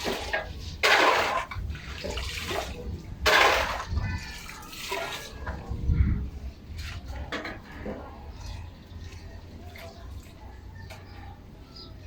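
Two loud bursts of hissing, splashing noise, each about a second long, followed by fainter scattered clatter and rustle with a low rumble underneath.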